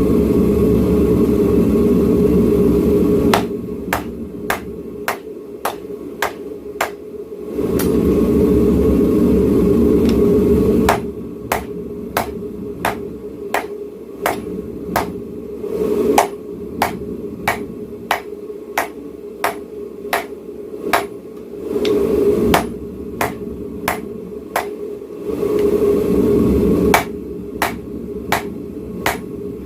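Hand hammer striking hot knife steel on an anvil in runs of steady blows, about two a second, alternating with stretches of the forge's loud steady roar.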